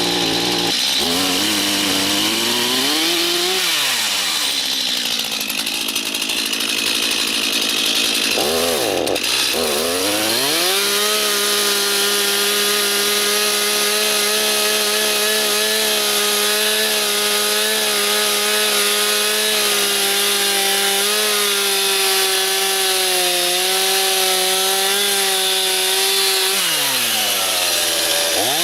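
Stihl chainsaw running at high revs while cutting log ends. The engine swings up and down in pitch as the throttle is worked for the first ten seconds or so. It then holds a steady high note for about fifteen seconds, drops back near the end, and revs up again.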